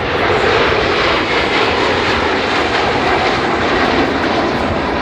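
Frecce Tricolori formation of Aermacchi MB-339 jet trainers flying past, a loud steady jet-engine noise that swells slightly in the first second.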